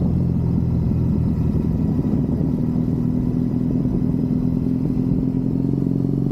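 Triumph Bonneville parallel-twin motorcycle engine running under way, heard from the rider's position. Its note rises a little about two seconds in and falls back near the end.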